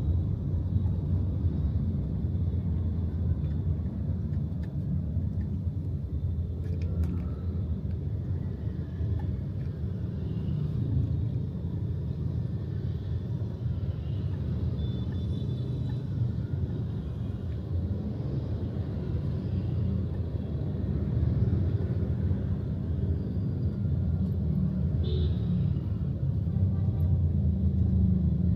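Steady low rumble of a moving vehicle heard from on board: engine and road noise during the ride.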